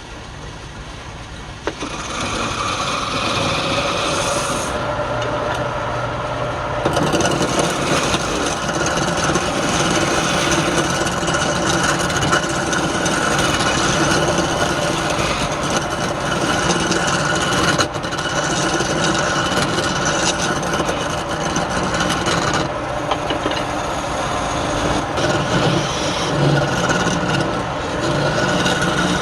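Wood lathe running, with a tool or abrasive rubbing steadily against the spinning wood. The scraping starts about two seconds in and grows fuller a few seconds later.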